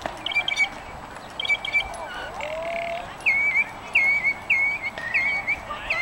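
A songbird singing: two short buzzy phrases, then a run of about five identical clear, hooked notes repeated roughly twice a second.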